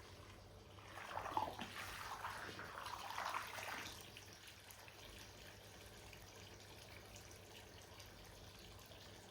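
Water sloshing and splashing for about three seconds, then only a faint steady background.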